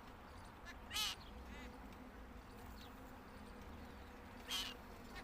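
Jungle babblers calling at the nest: two short, harsh calls, one about a second in and one near the end, with fainter calls in between.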